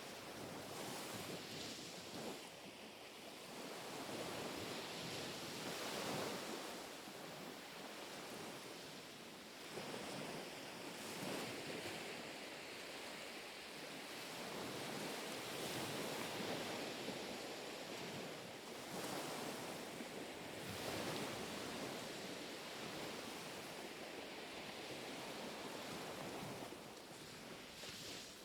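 Small, gentle sea waves lapping and washing in on the shore, one after another, swelling and fading every few seconds.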